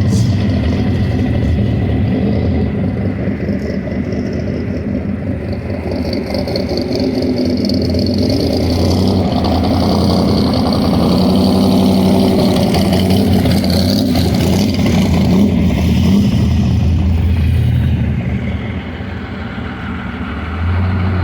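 Car engines running and revving as cars drive in at low speed; the exhaust rumble swells through the middle and drops off near the end.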